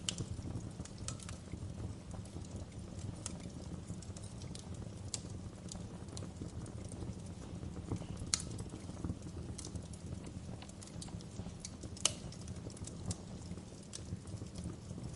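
Fire burning with a steady low rumble of flames and irregular crackles and pops, two sharper pops standing out about eight and twelve seconds in.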